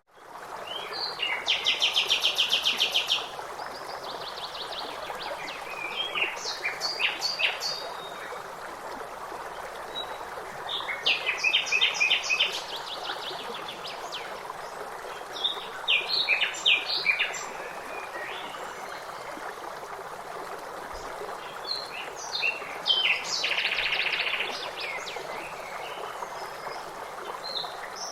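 Songbirds singing over a steady rush of flowing water. Their phrases of fast trilled notes come every few seconds. The sound fades in from a brief silence at the very start.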